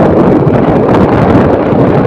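Loud, steady wind buffeting the microphone on a moving vehicle, with the vehicle's running noise beneath it.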